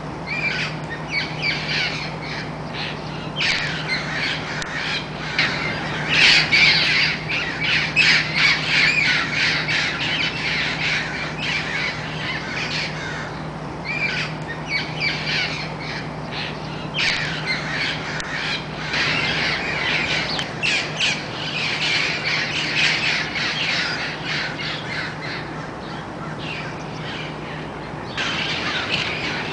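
A flock of wild parrots squawking, many harsh calls overlapping almost without pause.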